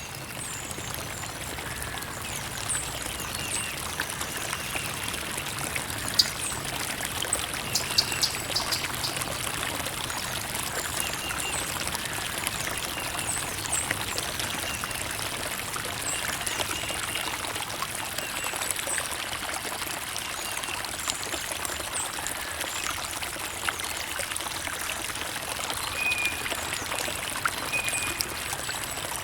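Creek water trickling and running steadily, with small splashes and faint high chirps now and then.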